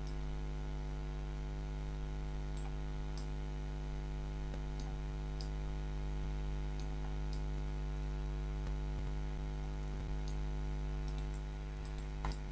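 Steady electrical mains hum picked up by the recording setup, with a few faint scattered mouse clicks over it.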